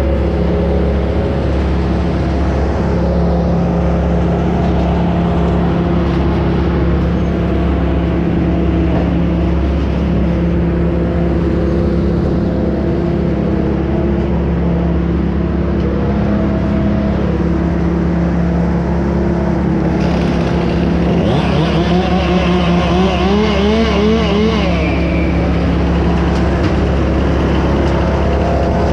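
An engine running steadily at a constant speed under a low rumble. Between about 21 and 25 seconds in, a second engine's pitch rises and wavers up and down.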